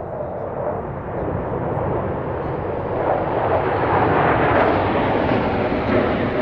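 Jet aircraft flying over low, a rushing engine roar that builds and peaks about two-thirds of the way through.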